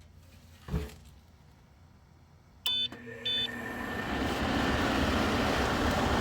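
Ideal-Air industrial dehumidifier being switched on: a knock, two short beeps from its control panel about half a second apart, then its fan starting up, a steady rush of air that builds over a second or two and holds.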